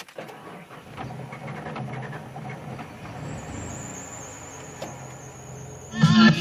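A 1993 truck's engine being turned over by the starter with a rough, pulsing churn as it tries to start after two years sitting, while a faint high whine joins partway through. A loud pitched sound begins near the end.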